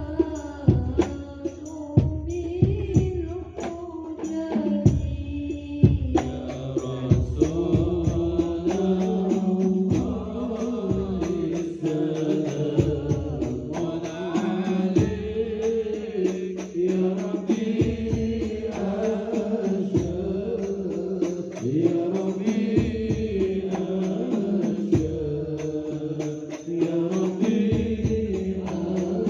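A man singing a devotional chant in long, wavering sung lines, with drum strikes keeping a rhythm underneath.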